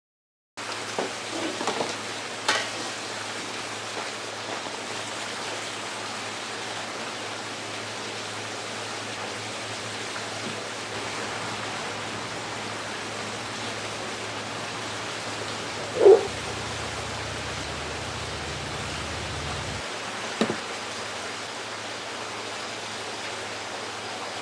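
Steady rain falling, an even hiss. A few brief sharp sounds stand out: some near the start, the loudest about two-thirds of the way through, and a smaller one a few seconds after that.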